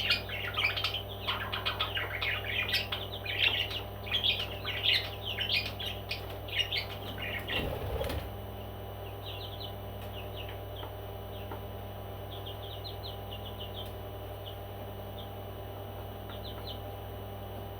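Pet parrot chirping and chattering rapidly and busily for about the first eight seconds, then a brief low thump, after which only a few short high chirps come now and then over a steady mains hum.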